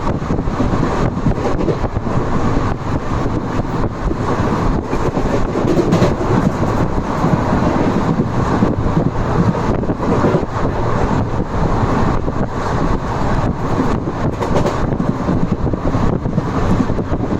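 Simhapuri superfast express train running: a steady rumble with many small clicks and rattles throughout.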